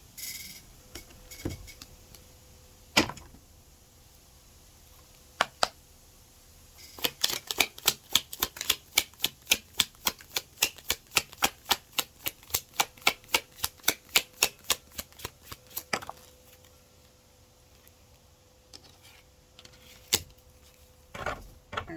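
Tarot cards being shuffled by hand: a quick, even run of sharp card clicks, about four or five a second, lasting roughly nine seconds, with a few single clicks before and after.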